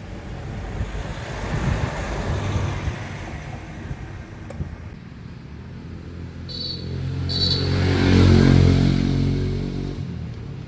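A car engine running, its rumble swelling to its loudest about eight seconds in and then fading away, with two short high chirps just before the peak.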